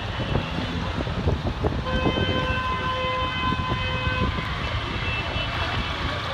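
Steady traffic rumble with a vehicle horn held for about two seconds in the middle.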